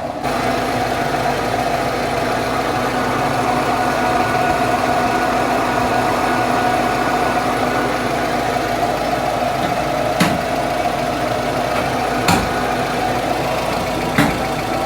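Car engine idling steadily, with three short sharp knocks about ten, twelve and fourteen seconds in.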